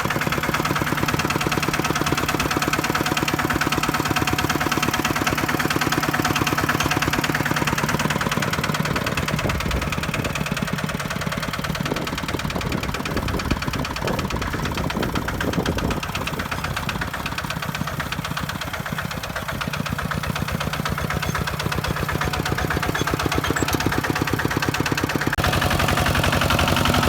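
Kubota walking tractor's single-cylinder diesel engine running steadily with a fast, even firing beat.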